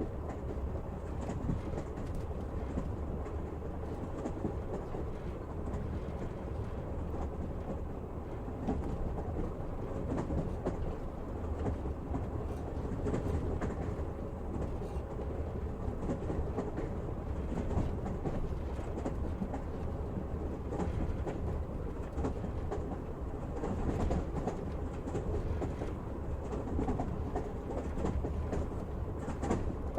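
Passenger train running, heard from on board: a steady low rumble of the wheels on the rails, with faint, irregular clicks.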